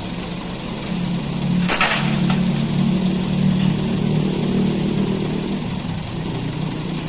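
Heavy truck engine running with a steady low hum that swells louder about two seconds in and slowly eases off, with a short hiss as it swells.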